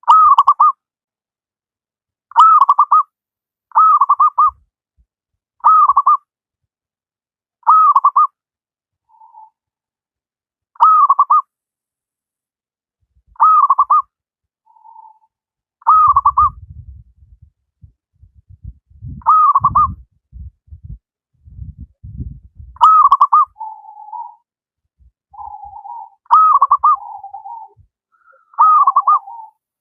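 Zebra dove cooing its song: about a dozen short, quavering coo phrases, one every two seconds or so, with lower trailing coos added to the phrases in the last few seconds. A low rumble runs under the song for several seconds in the middle.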